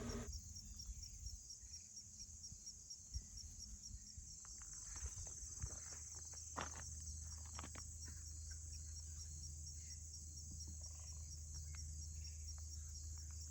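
Faint, steady, high-pitched chorus of insects trilling in the prairie grass, with a few soft scattered clicks.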